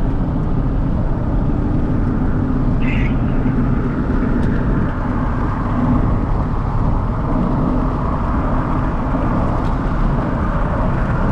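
Pickup truck driving along a road: a loud, steady rumble of engine and road noise.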